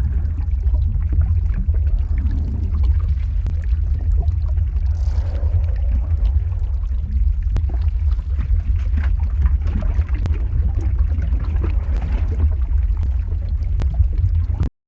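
Lava flow ambience: a steady deep rumble with scattered crackles and small pops over it. It cuts out abruptly just before the end.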